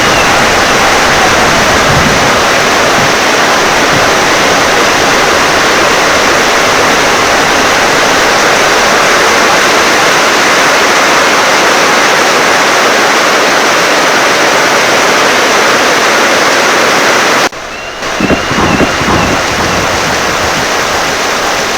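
Heavy rain driven by wind: a loud, dense, steady rush of water. About seventeen seconds in it breaks off suddenly and resumes a little lighter, with a few low rumbles.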